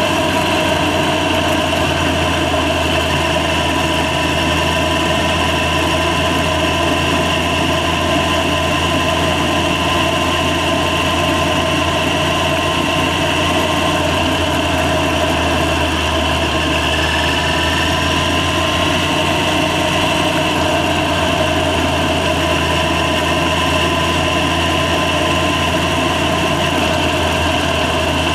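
Yamaha FZ6's inline-four engine running at a steady, unchanging note.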